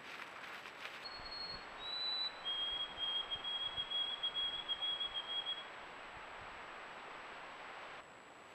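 Songbird singing: two short high whistled notes, then one long even trill of about three seconds, over a steady outdoor hiss. Brief rustling of low bushes is heard in the first second.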